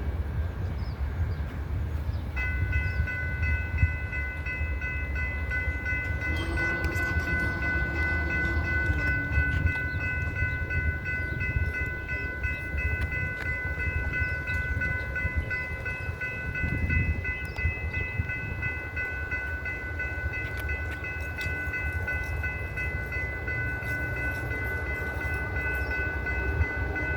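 Train rumbling past on the rails, with a steady, high-pitched ringing whine of several tones that starts about two seconds in and holds.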